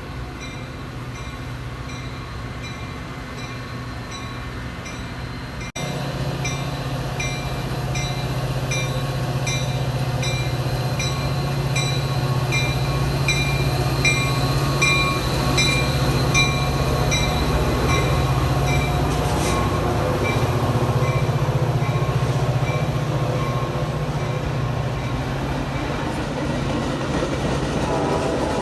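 A train rumbles past at close range, the low rumble getting louder as it nears, while a grade-crossing bell dings about twice a second. The sound jumps louder at an edit about six seconds in.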